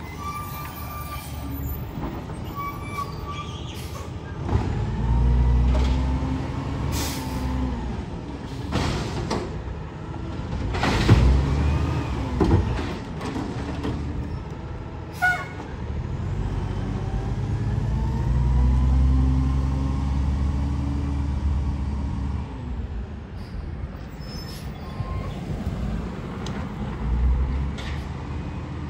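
Garbage truck engine revving up and falling back twice, with sharp air-brake hisses and clanks in between.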